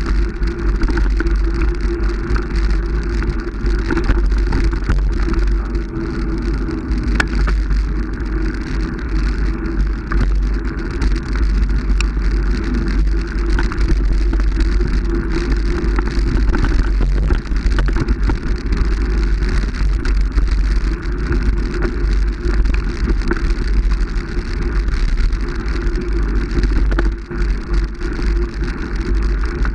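Steady running noise of a moving motor vehicle, with a heavy low rumble and an even rushing noise throughout.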